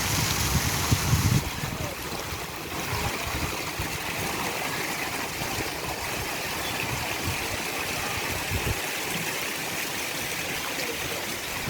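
Running water from a small stream or cascade: a steady rushing with trickling. Some low rumbling comes in during the first second or so.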